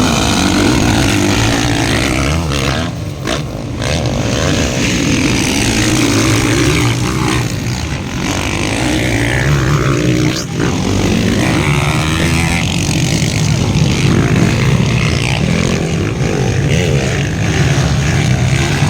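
Motocross bikes racing around the track, their engines revving up and down continuously.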